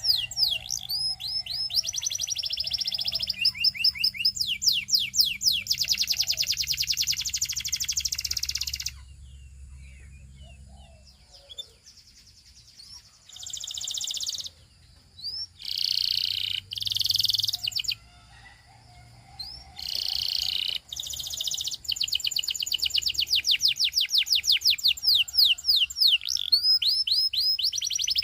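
A canary singing: fast trills of repeated sweeping notes that break off for a few seconds partway through, then a few short, harsher phrases before the rapid trills start again.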